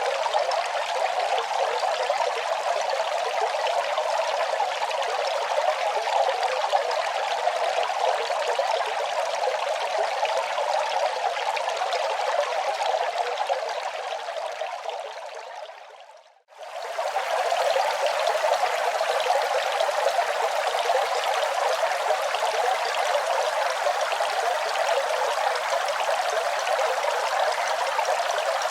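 Running water: a steady, even rush of flowing water. About fourteen seconds in it fades away to a moment of near silence, then quickly comes back at full level and runs on steadily.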